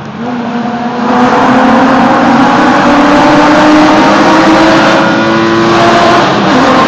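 BMW E36 M3's straight-six exhaust under load, loud, its note swelling about a second in and climbing slowly in pitch for several seconds before levelling off.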